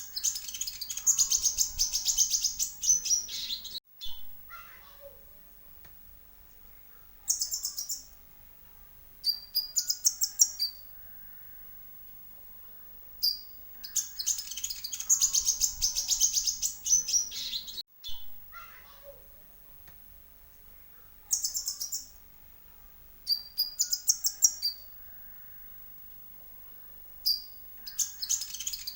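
Kolibri ninja (konin) sunbird song: dense, rapid high chittering trills about three seconds long, alternating with shorter high twittering bursts. The same sequence repeats about every 14 seconds, as in a looped lure recording.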